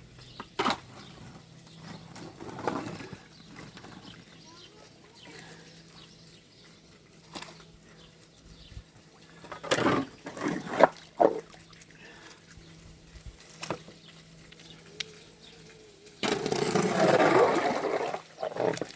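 Scattered knocks and clatter, the sharpest cluster about halfway through, then water gushing for about two seconds near the end.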